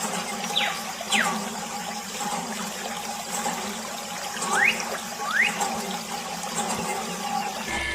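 Water running and splashing from a small homemade toy pump. Over it come a few short squeaks: two slide down in pitch early, and two slide up a few seconds later.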